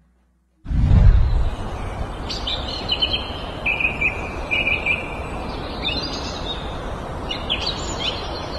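Birds chirping, with short calls and one held whistle, over steady outdoor background noise that cuts in suddenly about half a second in with a brief low rumble.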